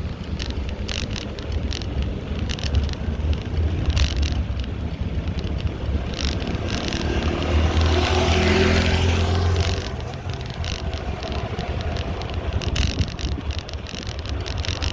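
Riding a bicycle through city traffic: a steady wind rumble on the microphone and frequent light rattles and clicks from the bike. A motor vehicle passes close, growing louder from about six seconds in and falling away at about ten seconds.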